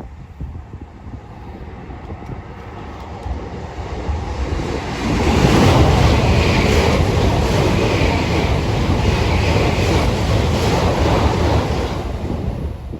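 Shinkansen bullet train passing through the station at high speed: a rush of air and wheel noise that builds for a few seconds, stays loud for about seven seconds as the cars go by, then drops off sharply near the end.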